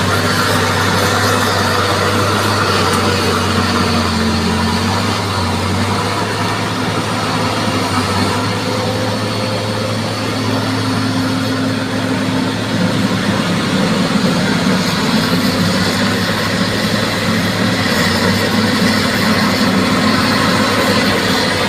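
Bulldozer's diesel engine running steadily under a heavy, even mechanical rumble, its note rising a little about halfway through.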